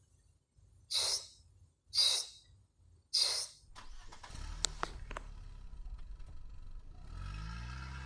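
Three short hissing bursts about a second apart, then a low motor rumble with a couple of sharp clicks. The rumble turns into a steadier, slightly rising engine-like drone near the end.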